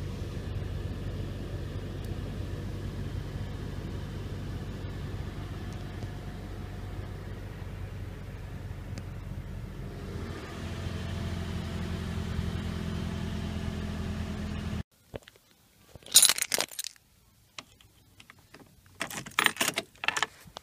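Toyota petrol car engine idling in park after a cold start, heard from inside the cabin. About ten seconds in, the idle note shifts and grows a little louder. It cuts off suddenly about fifteen seconds in, followed by two bursts of keys jangling and rustling as a key is handled at an ignition.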